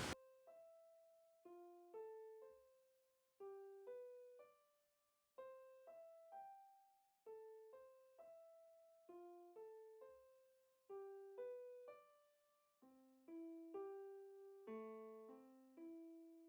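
Quiet background keyboard music in a piano sound: a slow melody of single struck notes, each left to fade, with lower notes joining in over the last few seconds.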